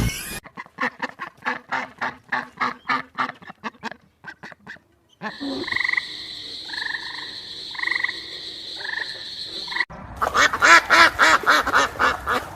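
A sequence of animal calls in three short cuts: first a fast run of croaking pulses, about five a second, then repeated short calls about once a second over a steady high hiss, then a loud burst of rapid calls near the end.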